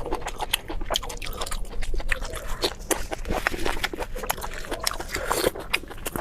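Close-miked eating: a person biting and chewing food, with many short clicks and smacks of the mouth.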